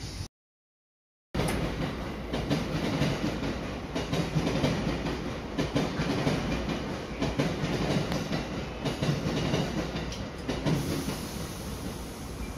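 Tobu Urban Park Line electric commuter train running slowly, heard from inside the driver's cab, with a steady rumble and frequent clicks of the wheels over rail joints and points. The sound cuts in abruptly after about a second of silence.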